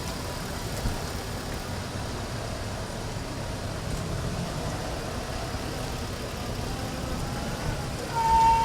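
Steady rumble of idling motor vehicles, with a short horn toot sounding twice near the end.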